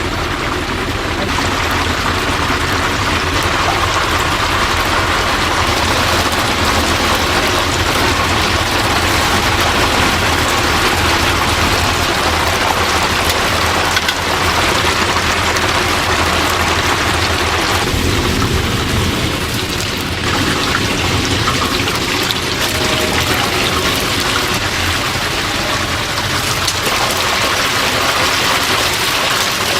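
Chicken deep-frying in a vat of hot oil, a steady dense sizzle.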